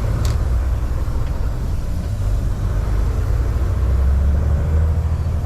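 Semi-truck's diesel engine and road rumble heard from inside the cab while driving, a steady low drone, with a brief click shortly after the start.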